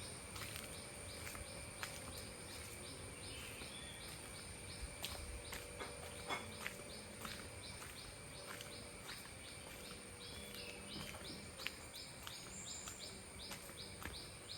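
Tropical forest ambience: a steady high insect drone, with a pulsing call repeating a little over twice a second and occasional short bird chirps.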